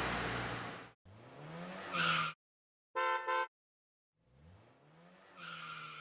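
Short car sound effects: an engine revving up with rising pitch, two short steady beeps, then another engine revving up near the end.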